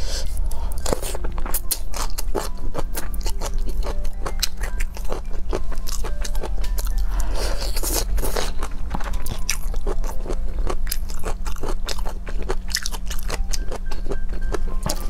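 Close-miked biting and chewing of fried, spice-coated skewered food: many small crisp crunches and crackles with wet mouth sounds, over a steady low hum.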